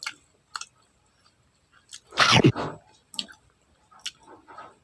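Close-up mouth sounds of someone chewing a whole kwek-kwek, a battered and fried quail egg: scattered wet smacks and clicks. About two seconds in, the loudest moment, a short sound from the throat that falls in pitch.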